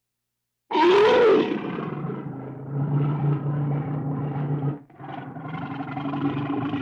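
A big cat roaring and growling. A loud roar rises and falls in pitch about a second in and settles into a long steady low growl. It breaks off briefly near five seconds in, then growls again.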